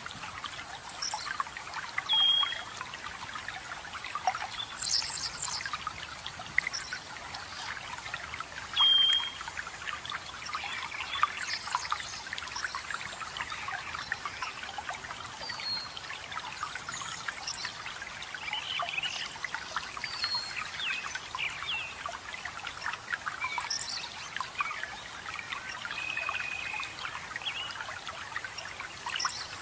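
Running water trickling and splashing steadily, with forest birds calling over it. There are two loud short whistled notes, about two and nine seconds in, scattered quick high chirps, and one held note near the end.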